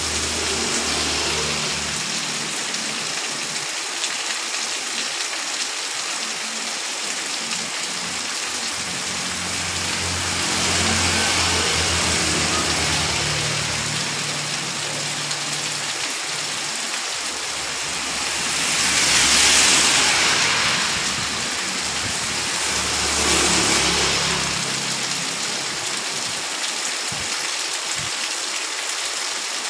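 Heavy rain pouring steadily onto a street, with motor vehicles driving past on the wet road: an engine hum under the rain and the hiss of wet tyres swelling three times, loudest a little after the middle.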